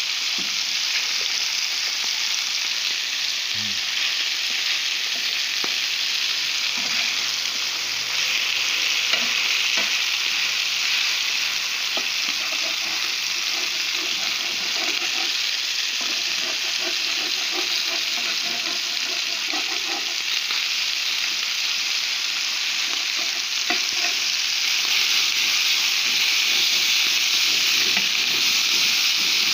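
Merguez sausages and pieces of meat sizzling steadily in a hot, oily pan, growing slightly louder near the end.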